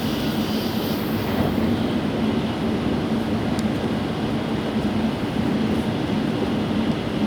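Steady running noise of a Tokaido Shinkansen bullet train at speed, heard from inside the passenger cabin: an even rumble with a low hum, and a high hiss that fades about a second and a half in.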